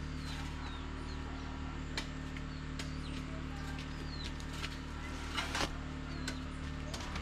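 Small birds chirping, with many short repeated calls over a steady low hum; a couple of light knocks sound about two and five and a half seconds in.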